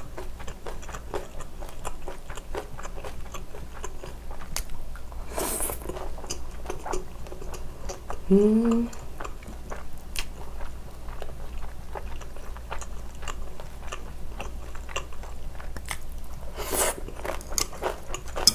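Close-miked chewing and biting of crispy fried sweet-and-sour pork, with many small crunches and wet mouth clicks. A short rising "mm" hum about halfway through, and two brief hissing rushes near the middle and near the end.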